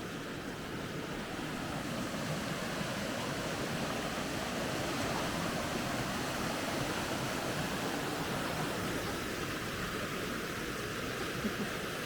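Mountain stream rushing over rocks below the trail: a steady wash of water noise that swells a little about two seconds in.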